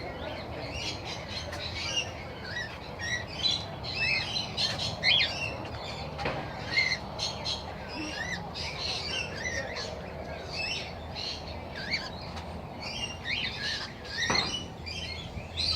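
A flock of aviary birds chattering with many short chirps and squawks, with a single sharp knock near the end.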